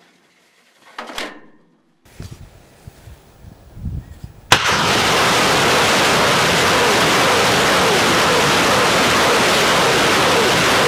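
Tornado-G multiple rocket launcher firing a salvo: a low rumble with a few thumps, then about four and a half seconds in a sudden loud blast that turns into a steady, continuous rushing roar of rockets leaving the launcher.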